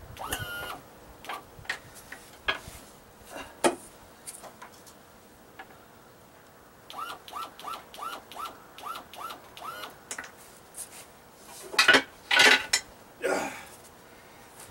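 Metal tools and parts clinking and knocking while an outboard motor's lower unit is worked on, with a run of short squeaks about halfway through and the loudest clatter near the end.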